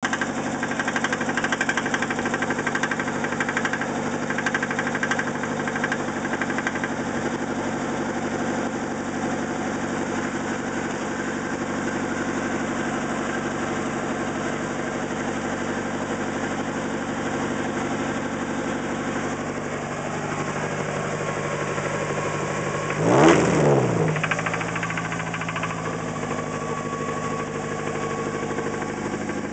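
1991 Nissan 240SX's KA24DE four-cylinder engine idling with a rod knock, the sign of a worn connecting-rod bearing. About 23 seconds in the throttle is blipped once, the revs rising and falling quickly before settling back to idle.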